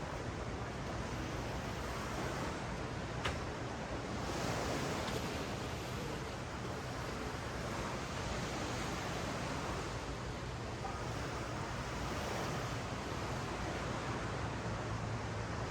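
Ocean surf washing steadily up and down a sandy beach, swelling a little about four seconds in. There is one brief sharp click about three seconds in.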